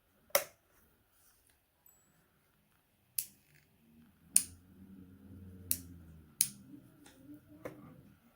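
Six sharp clicks spread across the span, with a low hum from about four to six seconds in.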